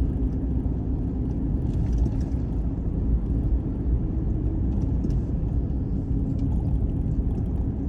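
Steady low rumble of a car driving along a back road, engine and tyre noise heard from inside the cabin.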